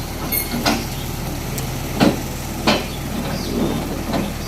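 Heavy machine's engine running steadily, with several sharp knocks: about three loud ones in the first three seconds and a lighter one near the end.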